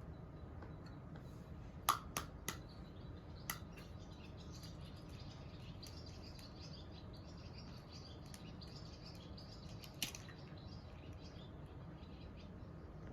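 Faint bird chirping over a steady low background, with a few sharp clicks: four quick ones about two to three and a half seconds in and one more near ten seconds.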